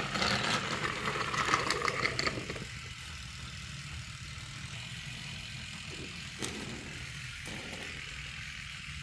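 Toy trains on a test run along their track: a steady low hum, with a stretch of busy clicking and rattling over the first two or three seconds and two short clatters near the end.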